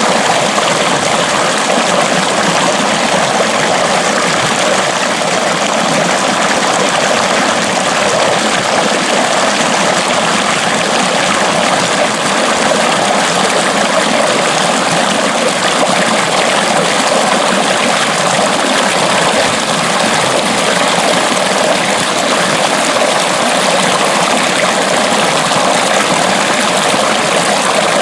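Water flowing steadily along an irrigation ditch (acequia), a loud, even rush that does not change.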